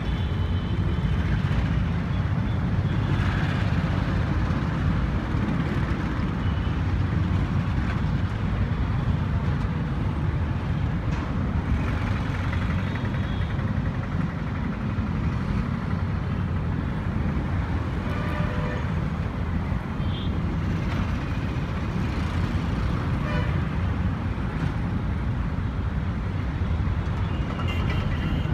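Passenger train rumbling steadily across a steel girder rail bridge overhead, mixed with road traffic passing underneath and a few short horn toots.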